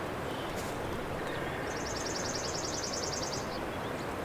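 Wind rushing steadily over the microphone. Through it, a songbird sings one fast, high trill of about ten notes a second, lasting nearly two seconds, in the middle.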